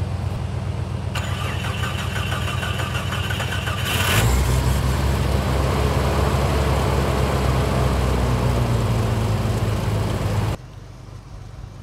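Jeep Cherokee XJ cold start: the starter cranks for about three seconds, the engine catches about four seconds in and runs steadily, and the sound cuts off abruptly near the end. Another engine is already idling underneath.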